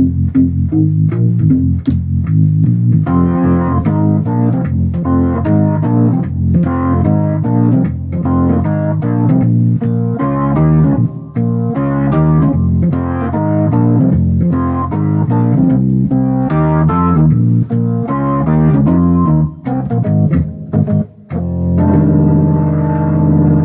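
Hammond XK-2 organ played through a Motion Sound Pro-3T rotary speaker in a rhythmic blues riff of short, repeated chords. Near the end it settles on one held chord.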